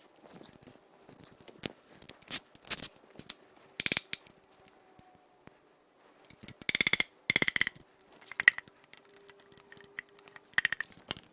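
Hand tools on the bare iron block and rotating assembly of a 5.7 L Vortec V8: scattered metal clinks and taps, with two short bursts of rapid ratchet-wrench clicking a little past halfway.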